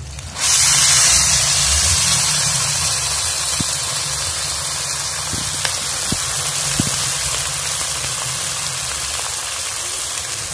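Chopped onions and tomatoes hitting hot oil in a kadhai (wok): a sudden loud sizzle about half a second in, then a steady frying hiss that eases slowly, with a few small pops.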